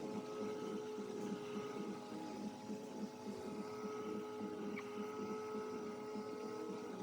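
A steady machine hum with several held tones and a fast, even pulsing low down.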